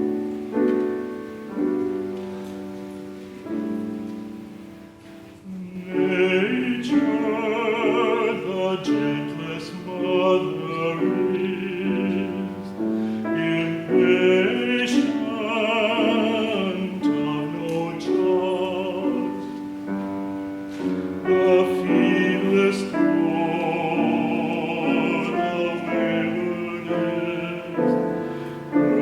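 Piano playing alone, then from about six seconds in a classically trained voice sings with wide vibrato over the piano accompaniment.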